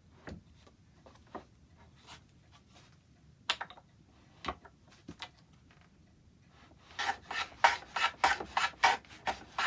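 A few light knocks of small wooden pieces being handled. Then, about seven seconds in, a quick run of scraping back-and-forth strokes, roughly four a second, as a hand tool takes wood off a small oak piece to bring its angle true.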